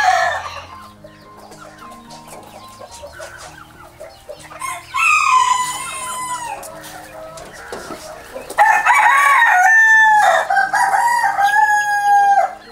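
A rooster crowing twice: a shorter crow about five seconds in, then a long drawn-out crow from about two-thirds of the way in, dropping in pitch at its end.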